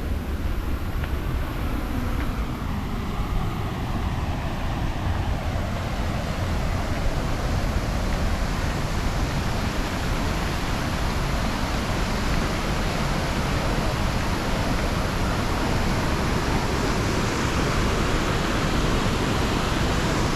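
Waterfall water rushing in a steady, loud hiss that grows a little stronger partway through.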